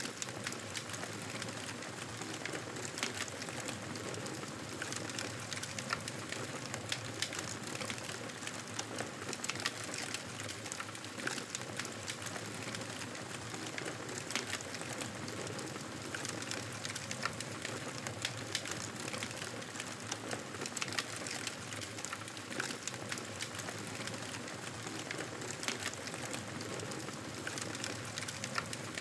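Campfire burning with a steady crackle and frequent sharp pops at irregular moments.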